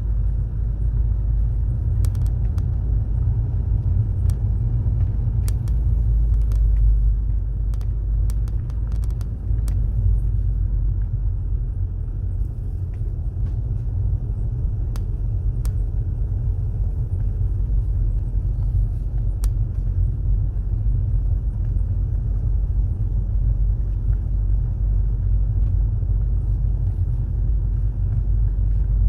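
Car driving along a road: a steady low rumble of road and engine noise, with scattered sharp ticks and clicks, more of them in the first third.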